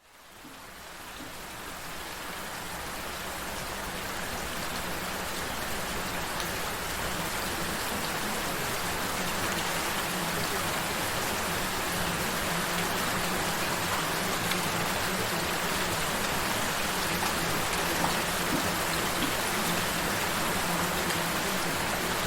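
Recorded gentle rain, an even steady patter, fading in over the first few seconds. A low steady tone sits underneath.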